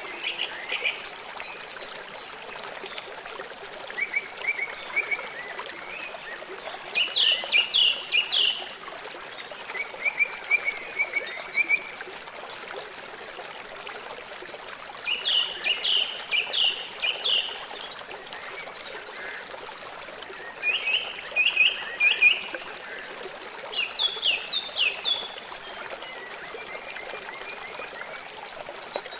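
A songbird sings short phrases of four to six quick, falling notes, repeated every three or four seconds over steady running water from a stream.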